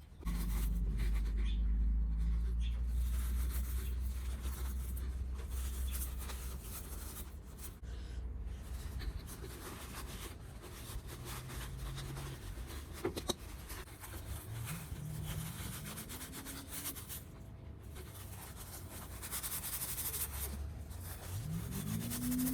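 Rubbing and scrubbing of hand work on small parts, over a low steady hum in the first third. Short rising whines come in the second half.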